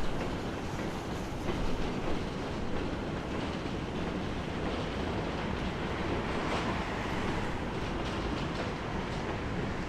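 A train running along the line: a steady rumble with a few faint clicks.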